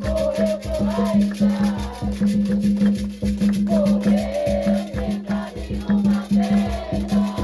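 Afro-Brazilian festival music: drums beat a fast, steady rhythm with shakers, and a sung melody wavers over it.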